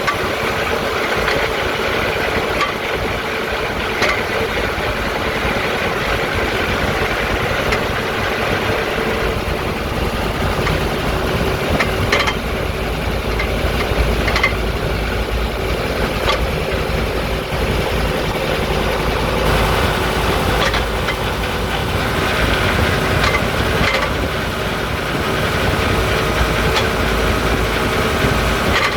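Setra S80 coach running with a steady engine drone, broken every few seconds by irregular sharp knocks and rattles: the rattle that the owner puts down to the rear axle.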